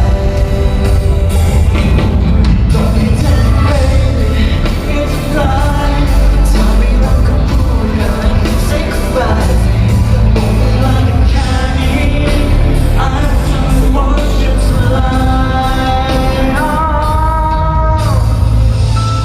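Live pop-rock band playing a song with a lead vocal over drums, bass and guitars, loud and full throughout.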